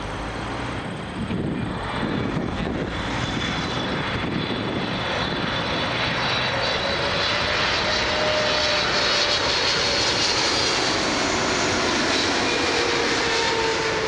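Jet airliner engines, the noise building over the first few seconds and then holding loud, with a high whine and a tone that slowly falls in pitch as the aircraft passes.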